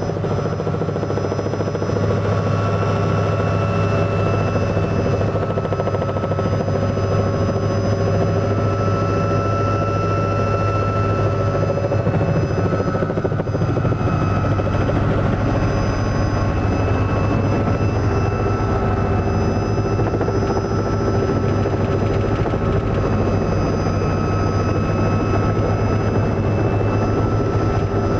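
Robinson R66 helicopter running steadily: a constant low drone with the thin high whine of its Rolls-Royce RR300 turbine above it.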